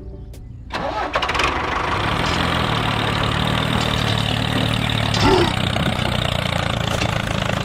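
A small engine starts about a second in, then runs steadily at idle.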